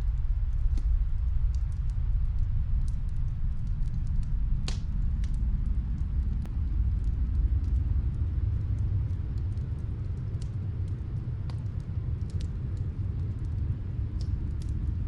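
Snowstorm wind as a steady low rumble, with sparse, faint fireplace crackles scattered over it; one crackle stands out about five seconds in.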